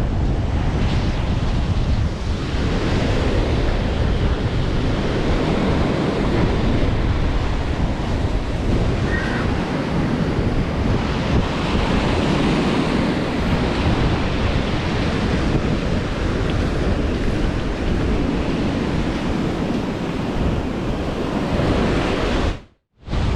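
Strong wind buffeting the microphone over waves breaking on the sea shore, a steady loud rush. The sound cuts out briefly near the end.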